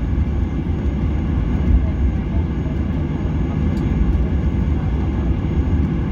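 Steady low rumble of an airliner cabin in flight: engine noise and airflow heard from inside the cabin.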